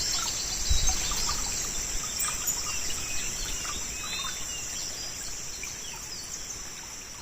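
Outdoor swamp ambience: a steady high-pitched chorus of crickets and other insects, with scattered bird chirps over it. A brief low thump comes about a second in.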